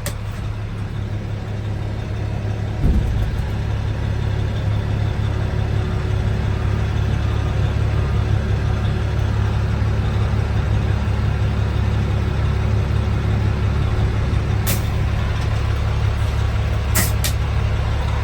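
Caterpillar diesel engine of a Volvo tandem-axle dump truck running with a steady low rumble. A thump comes about three seconds in, after which it runs slightly louder, and a few sharp clicks come near the end.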